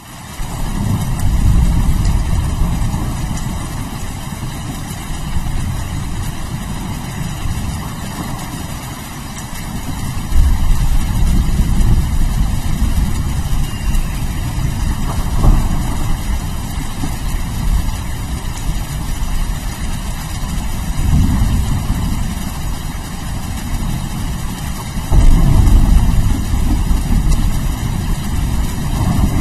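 Steady heavy rain with rolling thunder, the low rumble swelling and fading several times and growing loudest near the end.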